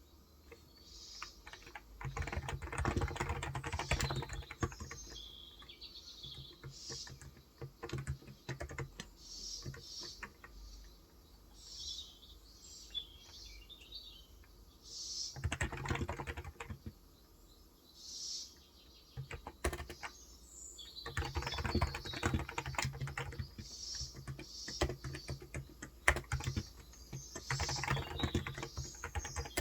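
Typing on a Cox Endeavor electrostatic capacitive keyboard with light 35 g keys, in quick runs of keystrokes broken by short pauses. Birds chirp in the background.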